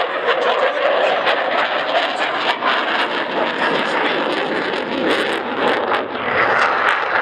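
Eurofighter Typhoon's two EJ200 turbofan engines in flight: a loud, steady rushing jet noise with many sharp crackles running through it.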